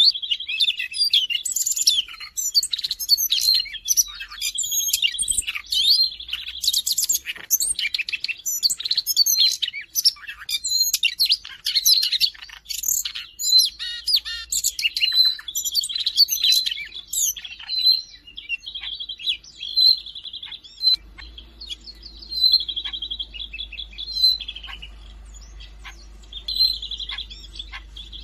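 Siberian rubythroat singing: a long, varied run of rapid high whistled notes and buzzy trills, dense at first and breaking into shorter, spaced phrases in the last third.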